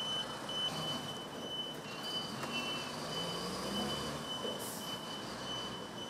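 Vehicle reversing alarm beeping evenly, about two to three high beeps a second, over steady background noise.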